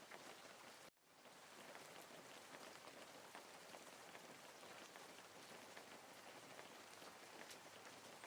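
Faint, steady rain: an even hiss of falling rain with a soft patter of drops. About a second in, the sound cuts out briefly and fades back in, like the join of a looped rain recording.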